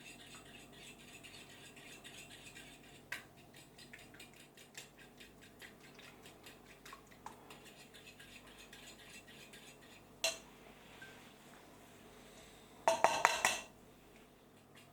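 Kitchen utensil working against a dish in quick, light scraping and tapping strokes, with a single knock about three seconds in. Near the end comes a short, loud clatter of dishes.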